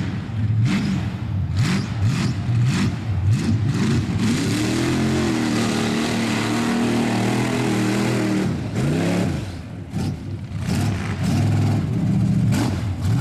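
A mud bogging truck's engine revving hard, rising and falling several times, held high for a few seconds in the middle with a steady hiss over it, then dropping and revving up again near the end.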